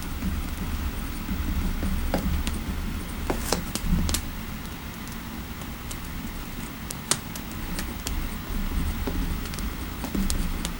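Fireplace ambience: a steady low rumble of the fire with scattered sharp crackles and pops at irregular moments.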